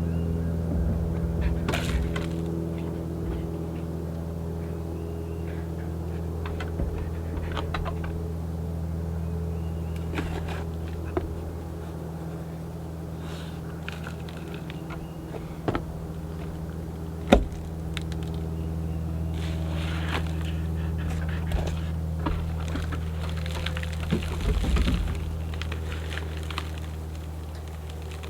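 A steady low machine hum throughout, with scattered knocks, clicks and rustles from handling plant pots and potting soil; the sharpest knock comes about 17 seconds in, and a short rustling scrape about 24 seconds in.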